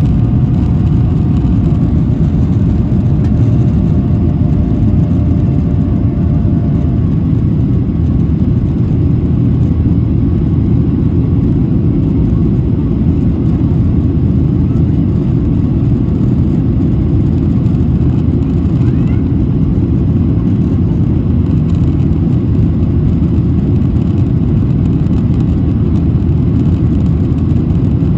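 Boeing 737-800's CFM56 jet engines running at high thrust, heard from inside the passenger cabin as a loud, steady, deep rush of noise.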